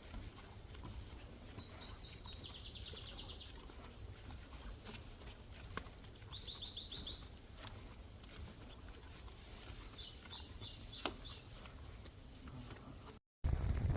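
Songbird singing outdoors: several short phrases of rapid, high repeated notes, about two seconds in, again around six seconds, and a longer run near ten seconds, over a steady low rumble. The sound cuts off near the end and music begins.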